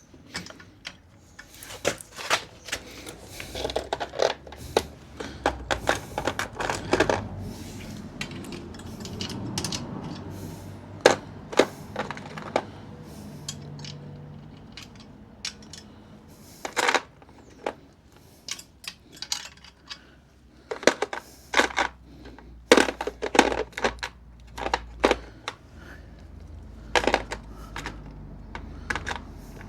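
Irregular sharp metallic clinks, taps and knocks, coming in clusters: tools and metal exhaust parts being handled while a motorcycle exhaust is fitted.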